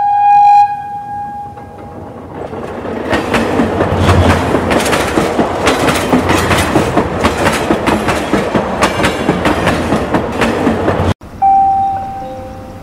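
A train horn sounds at the start and fades. Then a train runs with a steady, rhythmic clickety-clack over the rails. The running sound cuts off suddenly near the end and is followed by a short horn-like beep.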